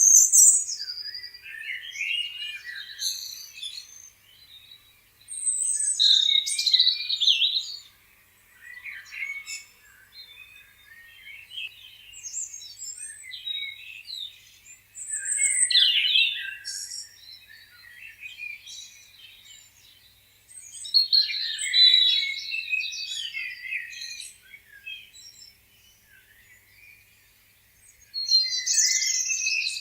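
Songbirds chirping and singing in bouts of quick, high chirps and short phrases, with brief lulls between bouts.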